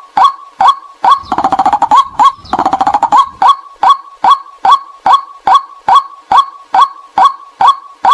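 White-breasted waterhen calling, played as a trapping lure call: sharp, loud 'kwak' notes repeated about twice a second, broken about a second in by two spells of fast rattling chatter before the steady calling resumes.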